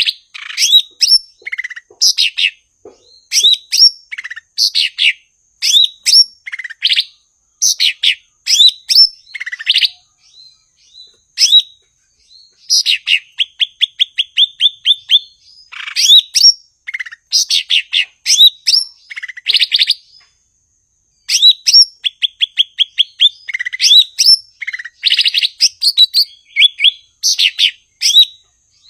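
Cucak ijo (green leafbird) singing loudly: a busy string of sharp, sliding chirps and whistles, broken twice by a fast, even rattle of about ten quick notes a second, with a couple of brief pauses.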